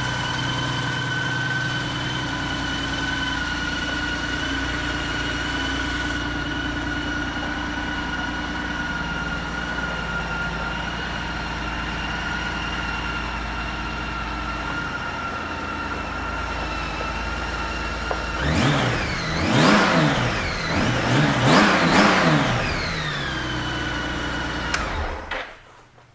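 Honda Gold Wing F6B's flat-six engine idling steadily, then revved in several quick throttle blips, each rising and falling in pitch. It settles back to idle and is switched off near the end.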